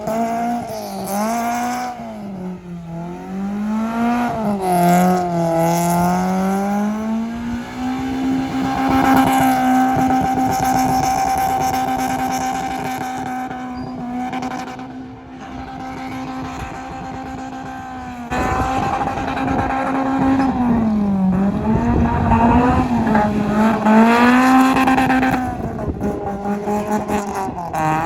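Car engine revving hard while drifting: revs rising and falling, held high and steady for about ten seconds in the middle, then dropping and climbing again.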